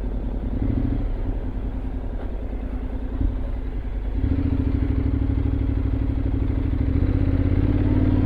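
Honda X-ADV 750's parallel-twin engine running under way, rising in pitch and loudness about four seconds in and again near the end as the bike speeds up.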